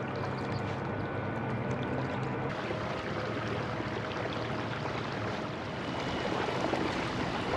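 Water rushing past a kayak under way on its electric trolling motor, with a low steady motor hum that fades after a couple of seconds.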